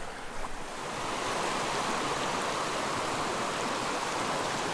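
Small mountain creek flowing and gurgling over rocks as a steady rush of water, a little louder after about the first second, with a few faint small knocks early on.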